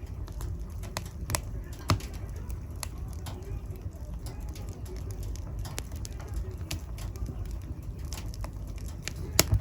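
Wood fire burning in a fireplace: a steady low rumble of flames with scattered crackles and pops, two sharper pops about two seconds in and near the end.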